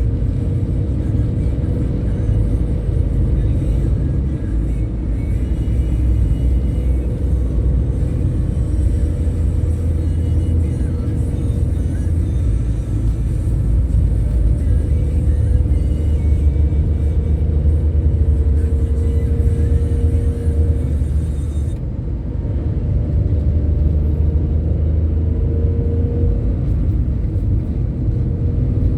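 Scania K310IB bus under way, its engine giving a steady deep rumble.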